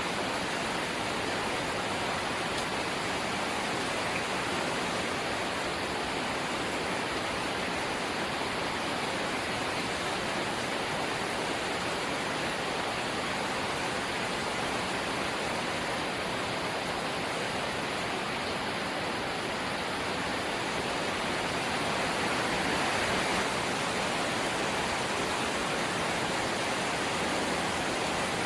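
Steady light rain falling, an even hiss without distinct drops, swelling slightly near the end.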